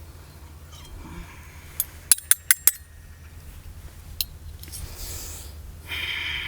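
Cutlery clinking against dishes: a quick run of about five sharp clicks about two seconds in, one more click a little later, and a brief scrape near the end.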